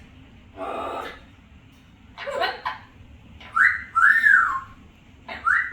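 Yellow-crowned amazon parrot whistling: a two-part whistle, a short rising note then a longer rise-and-fall glide, heard about halfway through and starting again near the end, after two short calls.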